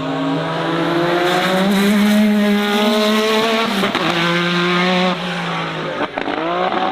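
A competition car's engine held at high revs while the car spins donuts, with tyres squealing. The revs drop sharply about four seconds in, dip again near the end, then climb back up.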